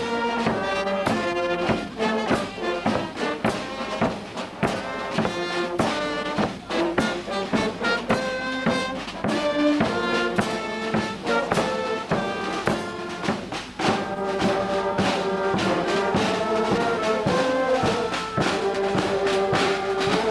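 A brass band playing, trumpets and trombones holding and changing notes over a regular beat.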